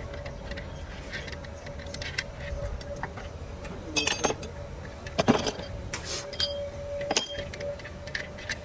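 Hand tools and metal engine parts clinking and clanking during work on an engine, a few sharp metal knocks that ring briefly, over a steady hum.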